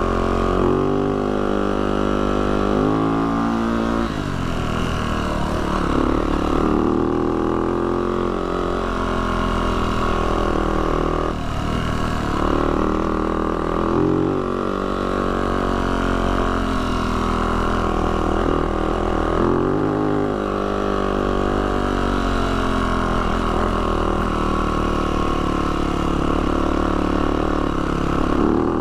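Yamaha YZ450F dirt bike's single-cylinder four-stroke engine running on the trail, its revs rising and falling with the throttle.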